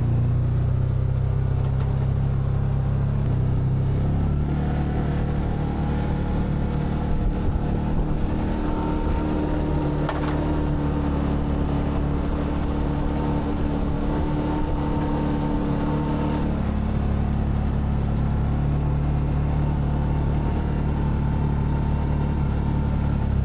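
A vehicle engine running steadily, its note shifting a little about four seconds in and again around sixteen seconds in.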